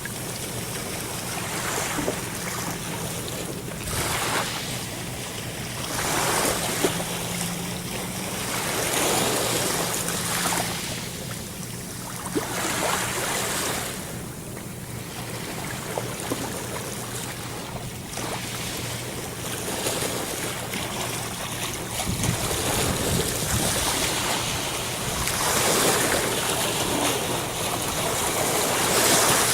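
Sea waves breaking and washing in, the rush swelling and ebbing every few seconds, over a steady low hum.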